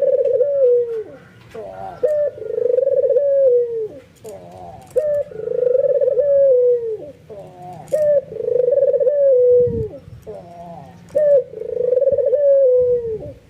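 White albino Barbary dove (puter) giving its nodding bow-coo: about five calls roughly three seconds apart, each a short rising note followed by a long, steady coo.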